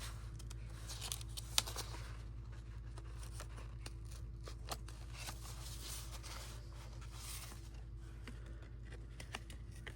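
Quiet paper-crafting sounds: paper rustling and being cut, with a few small sharp clicks, over a steady low hum.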